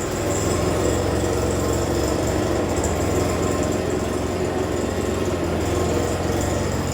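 Stihl BG 86C handheld leaf blower's two-stroke engine idling steadily.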